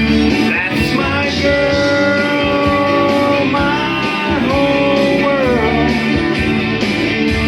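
Instrumental country-rock band music: a lead guitar holds long notes that bend and slide, over a steady beat with bass and rhythm guitar.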